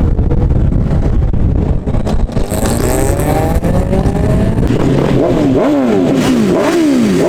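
Car engines in traffic: a dense low rumble at first, then an engine revving up, and from about five seconds in quick repeated rev blips that rise and fall about twice a second.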